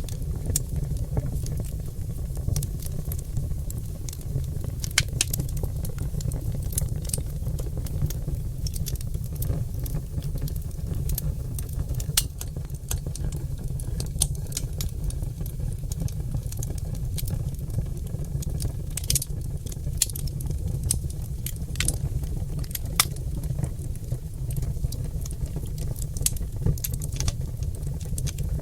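Oak logs burning in a fireplace, crackling and popping with irregular sharp snaps, a few louder than the rest, over a steady low rumble of the fire.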